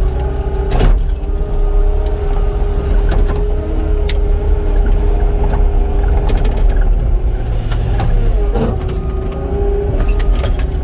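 Heavy construction machine's diesel engine running steadily under hydraulic load, with a steady whine. About eight and a half seconds in the engine pitch dips briefly as it lugs, then recovers. Scattered metal clanks and knocks, the loudest about a second in and with the pitch dip.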